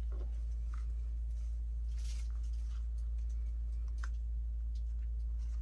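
A steady low hum throughout, with faint scattered rustles and light taps of paper and craft pieces being handled.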